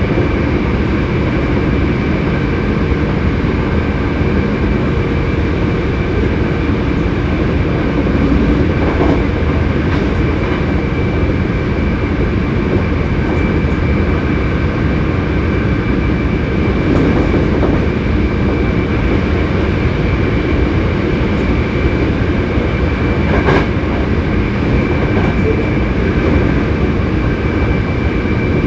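Hankyu 7300-series electric train car running at a steady cruising speed, heard inside the car: continuous rumble of wheels on rail with a steady high whine from the traction motors and gears, and a few scattered rail-joint clicks. This car is singled out as an abnormal-noise car for its unusual running sound.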